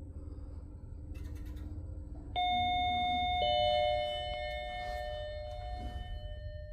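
Lift chime sounding two notes, the second lower than the first, about a second apart, each ringing on and slowly fading over a steady low hum from the lift.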